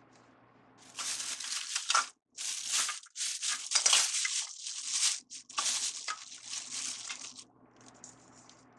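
Deco mesh crinkling as it is scrunched and handled, in several loud bursts that stop about seven and a half seconds in.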